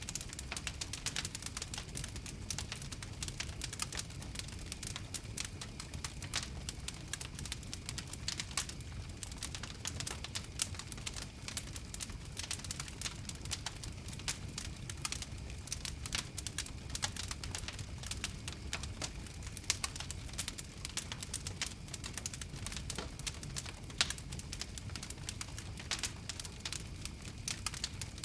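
Wood fire crackling: many small irregular pops and snaps over a steady low rumble of the flames, with a few sharper pops.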